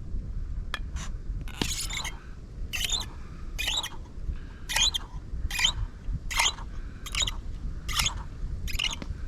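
A hand can opener being cranked around a tin can of diced tomatoes and green chilies: a short metallic scraping crunch with each turn, repeating about every 0.8 s, over a low wind rumble.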